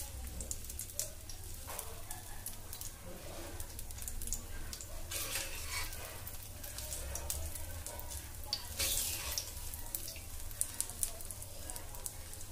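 Egg omelette frying in oil on a flat pan: a steady sizzle with many small crackling pops, swelling louder about five and nine seconds in.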